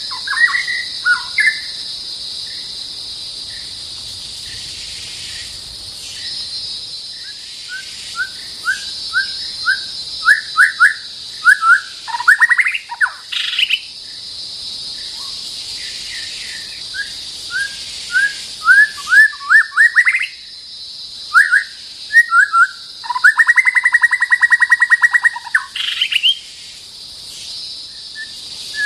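White-rumped shama singing: runs of short, rising whistled notes in quick succession, with a fast rattling phrase for about three seconds near the end. A steady high insect drone continues underneath.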